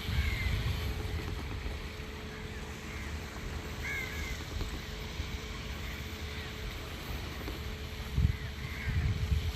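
Wind rumbling on the microphone over a faint steady hum, with faint short chirps about once a second. Gusts swell about a second in and again near the end.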